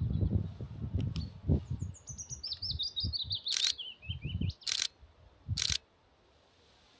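Willow warbler singing its song: a quick run of soft, sweet notes that step down in pitch and last about two seconds. Low wind rumble on the microphone comes at the start, and three short sharp noises come in the second half.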